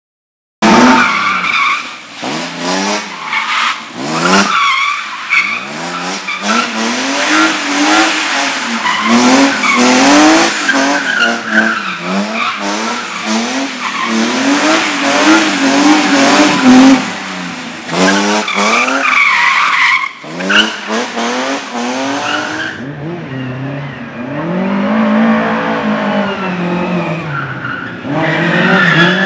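Slalom competition car driven hard through the course: the engine revs up and down repeatedly as it accelerates and brakes between the cones, with tyres squealing and skidding. It starts suddenly about half a second in, and near the end the sound turns duller while the revving continues.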